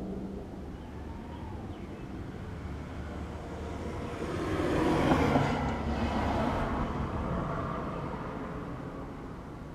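A vehicle passes by: its noise builds gradually to a peak about five seconds in, then fades away.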